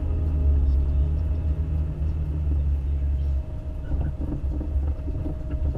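Toyota FJ Cruiser's 4.0 L V6 running under way, with a deep engine and road rumble. A steady drone eases off about three and a half seconds in, and then the rumble goes on more unevenly with a few light knocks.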